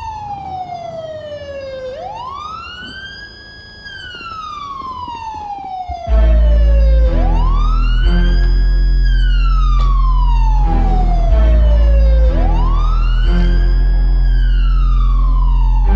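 Police siren wailing in slow cycles: each falls over about three seconds, then sweeps quickly back up and holds briefly before falling again. About six seconds in, a loud music track with heavy bass comes in under it.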